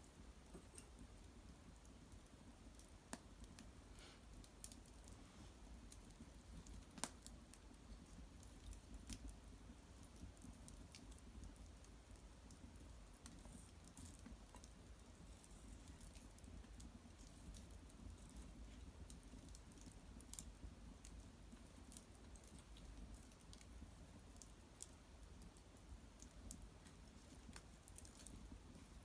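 Faint wood fire burning cedar branches and bark, crackling with scattered, irregular sharp pops and ticks, a few louder than the rest.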